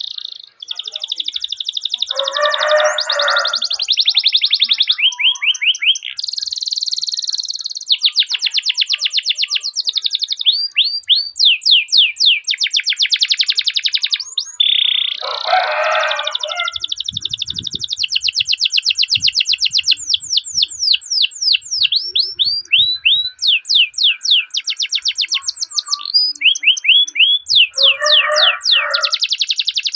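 Domestic canary singing a long, unbroken rolling song: fast trills and runs of rapid repeated chirping notes, changing phrase every second or two. Three times a lower, harsher phrase breaks in.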